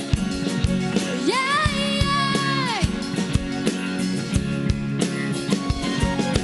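A live pop band playing with a steady drum beat. A female singer holds one long, wavering note about a second in and lets it fall away near the three-second mark.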